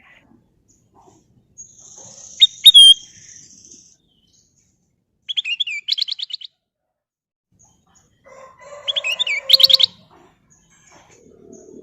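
Kutilang emas bulbul singing in three separate bursts: a sharp, clear whistled note, then two quick runs of rapid chattering notes, the last near the end.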